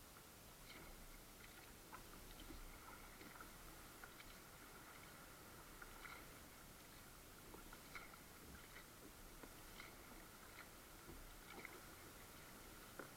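Near silence, with faint, irregular small clicks and ticks over a low hiss.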